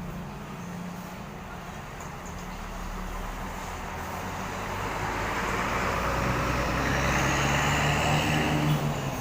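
Diesel engine of a large intercity coach running as the bus moves past. The engine hum and road noise grow louder over several seconds, then drop off near the end.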